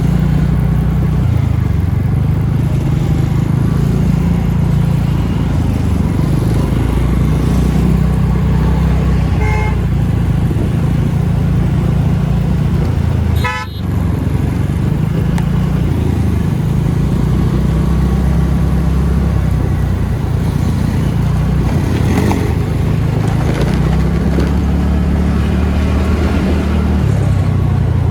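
TVS NTorq scooter riding uphill, with steady road and wind noise on the rider's microphone. Vehicle horns toot briefly about ten seconds in and again a few seconds later.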